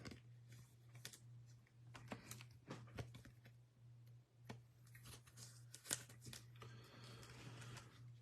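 Faint scattered clicks and light rustles of trading cards being handled, over a steady low electrical hum.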